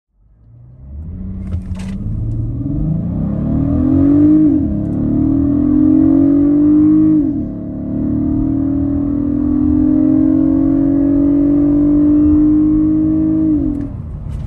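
2023 VW Atlas Cross Sport's 3.6 L VR6 with an ECS Luft-Technik cold-air intake, accelerating hard. The engine note climbs in pitch through each gear and falls sharply at the 8-speed automatic's upshifts, about four and a half, seven and fourteen seconds in.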